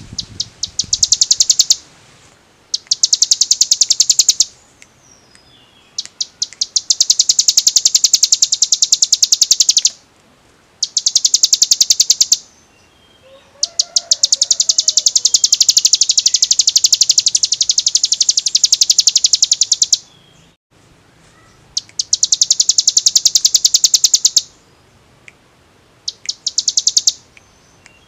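Hill prinia (ciblek gunung) singing a fast drilling trill of sharp, high notes, in long runs of a few seconds each with short pauses between.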